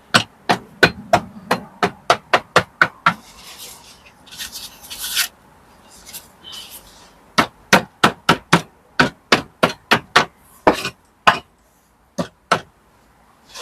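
Hammer striking masonry in quick runs of sharp knocks, about two or three a second, with short scrapes between the runs, as old mortar and brick are cleaned out of the wall.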